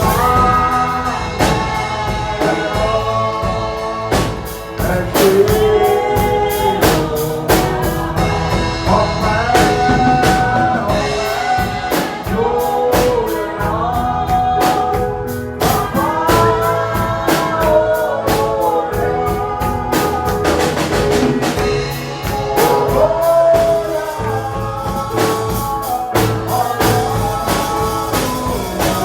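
Gospel worship music: singing over a band with a steady drum beat.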